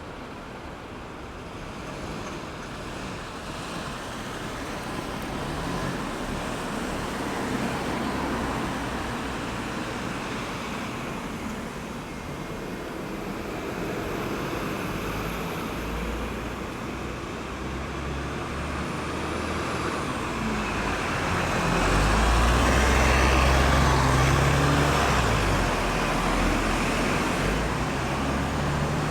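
Road traffic circling a roundabout: a steady wash of cars passing, with a heavy vehicle's engine, likely a bus or lorry, growing loud and passing close about two-thirds of the way through before fading.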